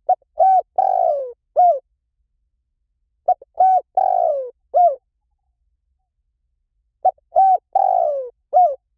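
Spotted dove cooing: three identical phrases about three and a half seconds apart. Each phrase has two short coos, one longer coo that falls in pitch, and a short final coo.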